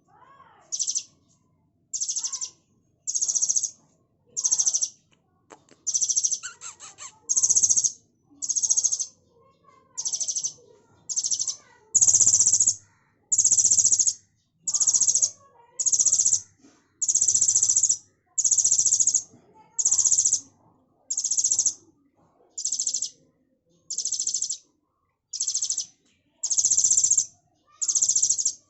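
Baby bird calling over and over, a shrill high-pitched call about once a second, each call about half a second long.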